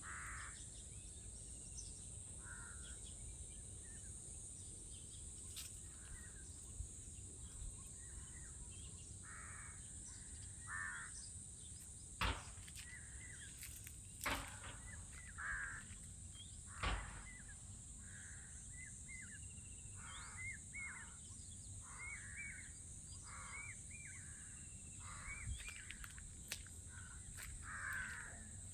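Crows cawing, many short harsh caws repeated at irregular intervals, over a steady high-pitched hiss. A few sharp clicks stand out, the loudest about twelve seconds in.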